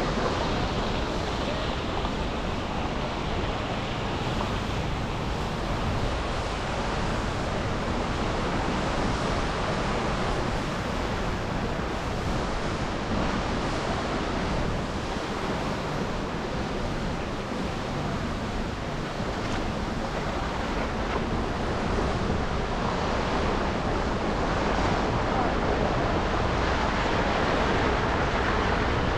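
Steady road noise from driving on wet, slushy city streets: tyres hissing on the slush and the hum of traffic, getting a little louder near the end.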